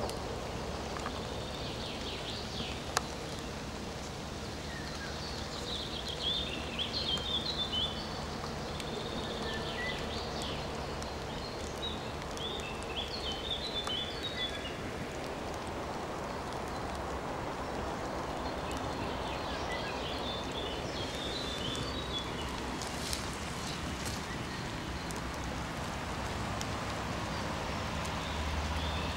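Birds singing in short chirping phrases on and off, over a steady background noise, with a single sharp click about three seconds in.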